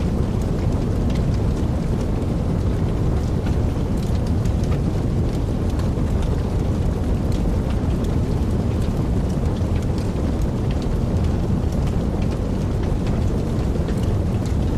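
Wood fire burning in a fireplace: a steady low rumble of flames with many small sharp crackles and pops scattered throughout.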